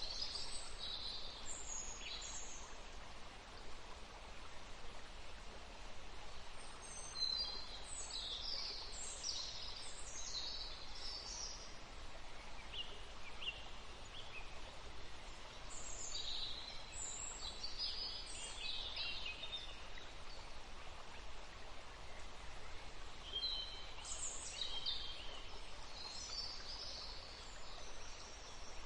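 Songbirds chirping in clusters of quick, high notes that come back about every eight seconds, over a steady background hiss of outdoor ambience.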